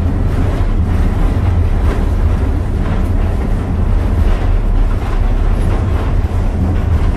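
Passenger train pulled by steam locomotive No. 2023, heard while riding: a steady low rumble with faint, irregular clicks.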